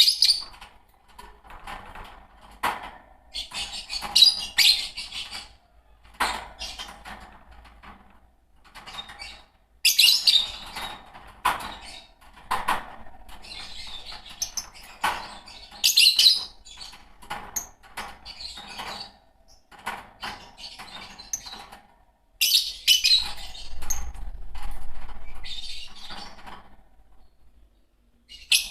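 A pair of green Fischer's lovebirds chirping and chattering, in repeated loud bursts of sharp high chirps every few seconds with quieter twittering between them.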